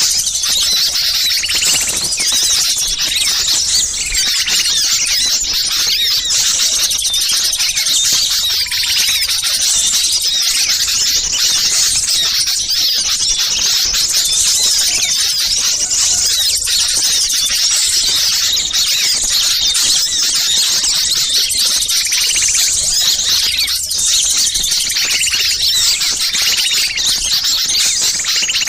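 Dense, unbroken chatter of many small songbirds' high-pitched agitated calls layered together, a bird-lure mix of noisy small-bird calls played to draw wild birds in.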